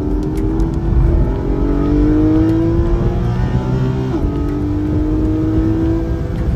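Car engine heard from inside the cabin, accelerating under load. Its pitch climbs steadily, drops sharply about four seconds in at an upshift, then climbs again.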